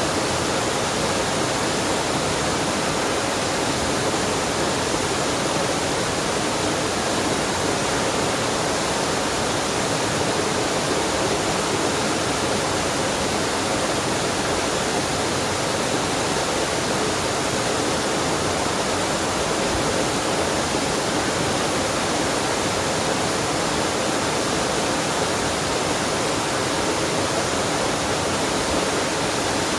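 Waterfall and mountain-stream water rushing, a steady even rush with no breaks.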